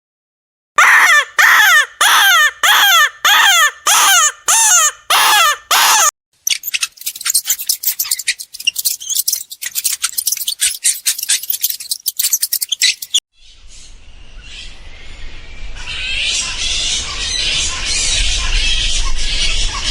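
A bird gives a series of nine loud, harsh calls, each falling in pitch. Then comes a run of rapid clicking, and after that a noisy hiss and low rumble that grows louder toward the end.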